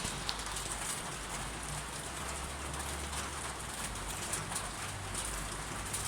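Steady rain falling, with many scattered drops ticking on a hard surface over a low rumble.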